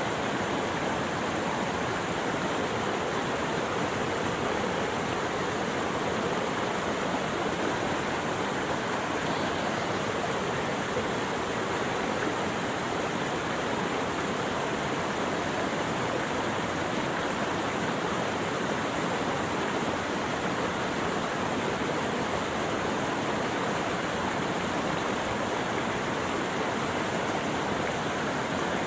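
Steady rushing water, like a stream or small waterfall, with an even hiss that does not change.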